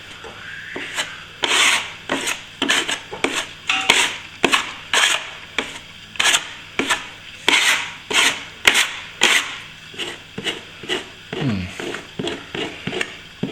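A plastering tool scraping over setting plaster filler in quick, uneven strokes, about two a second. The filler is not holding and keeps coming loose, because the mix was too far set when it went on.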